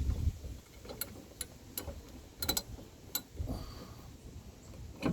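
Sharp metal clicks from a hand tool tightening a bolt on a plastic under-panel, single or in small clusters at irregular gaps, after a low thump at the start.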